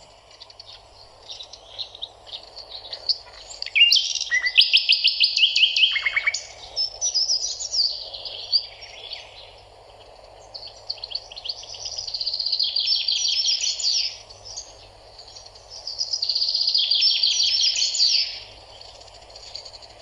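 Songbirds singing: several phrases of rapid high trills and chirps a few seconds apart, over a steady background hiss.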